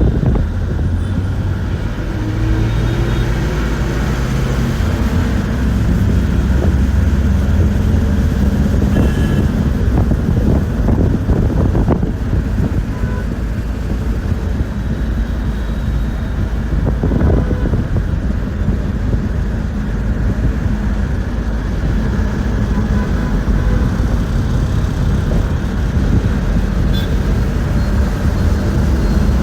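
Interior of a moving bus: a steady low rumble of engine and road noise, with the engine note climbing in steps a few seconds in as the bus accelerates.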